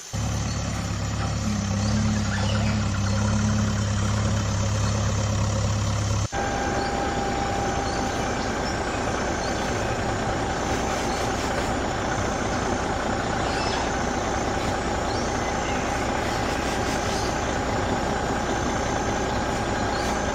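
Heavy truck engine running steadily. About six seconds in it cuts abruptly to a different engine sound with a steady whine on top.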